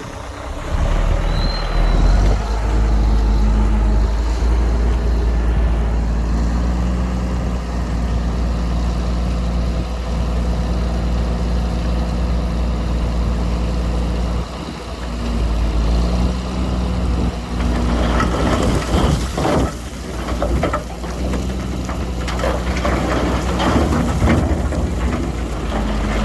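Heavy construction machine's diesel engine running steadily and loud, with a brief high squeal about a second and a half in. From about two-thirds of the way through, uneven bursts of clattering, rushing noise join the engine.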